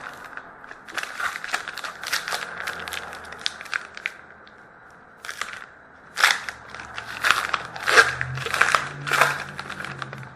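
A trading card pack's wrapper being torn open and crinkled by hand: runs of crackling rustles with a short lull in the middle, loudest in the second half.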